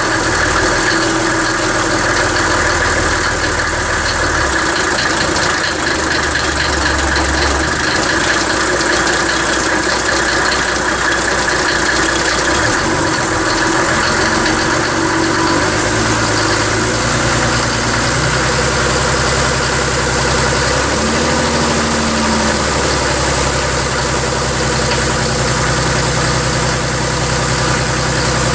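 Mercedes OM603 straight-six diesel engine running steadily, with its low tone shifting a few times.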